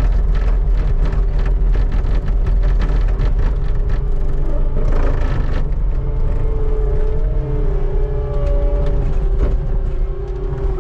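Skid steer engine running steadily under load while its bucket scrapes packed snow off pavement, with a dense clatter through the first half. A wavering whine comes in over the last few seconds.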